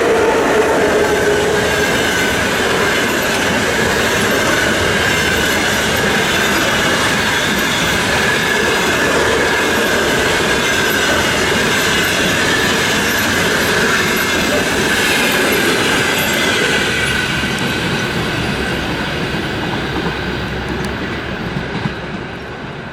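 Express passenger train hauled by a ChS7 electric locomotive passing at speed, its wheels clattering over the rail joints with a thin high squeal. The noise fades away near the end as the train draws off.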